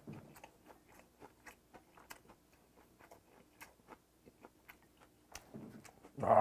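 Close-miked chewing of a mouthful of rice mixed with spicy raw gizzard shad salad: soft, wet mouth clicks and crunches several times a second. One brief louder sound near the end.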